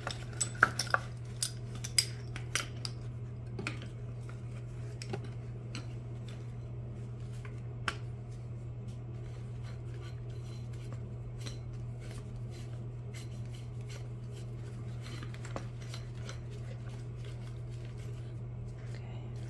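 Metal shock-absorber parts and hand tools clinking and tapping: a quick run of sharp clicks in the first few seconds, then occasional single clicks, over a steady low hum.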